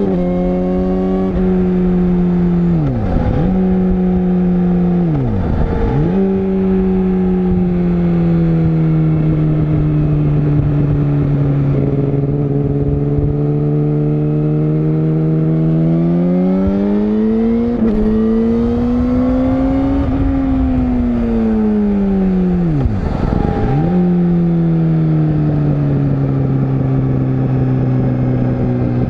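Yamaha YZF-R6 (RJ27) 600 cc inline-four engine running at a steady, moderate engine speed while riding downhill, its pitch easing down, climbing from about 16 s to 20 s and then dropping back. Three short whooshes sweep through it, about 3, 6 and 23 seconds in.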